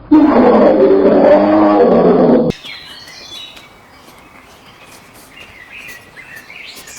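A farm animal's loud, drawn-out call lasting about two and a half seconds, cut off abruptly, followed by faint high bird chirps.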